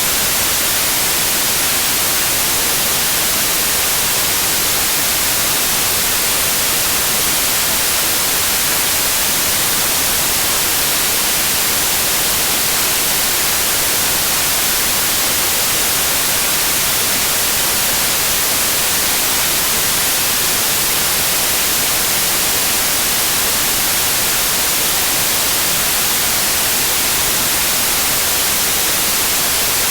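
Steady white noise, an even hiss brightest in the treble, unchanging throughout.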